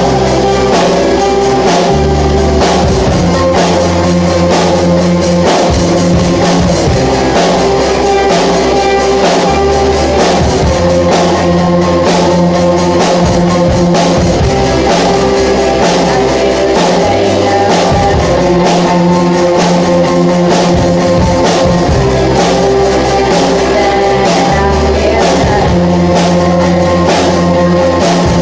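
Rock band playing live: drum kit keeping a steady beat under guitars, with a singer.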